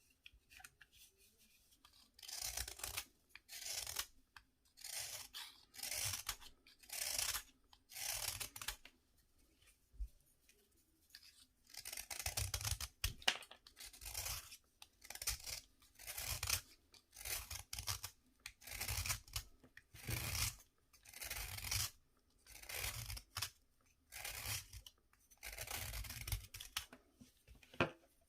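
A dry, crumbly bath fizzer being worked in repeated gritty, rasping strokes, about one a second, with a pause of a few seconds before the middle.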